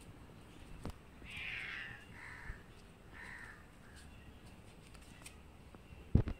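Harsh bird calls, like crows cawing, three in a row starting about a second in. Two sharp knocks near the end.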